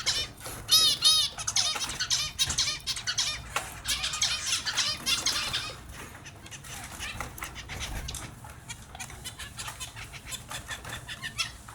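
Small finches chirping and calling over one another: a dense run of quick high calls that thins out and drops in loudness about six seconds in, with scattered short ticks after that.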